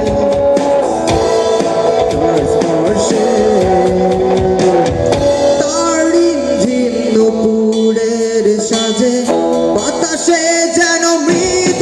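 Live performance of a Bengali folk song: a male singer with instrumental accompaniment, the voice clearest in the second half.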